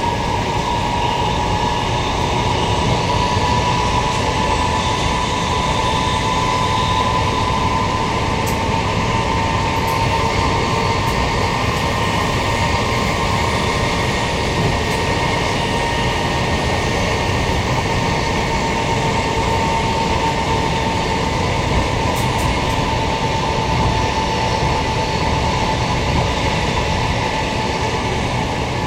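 Queensland Rail electric multiple unit running steadily along the line, with a continuous rumble of wheels on rails and a steady high whine over it that sinks a little in pitch in the last several seconds.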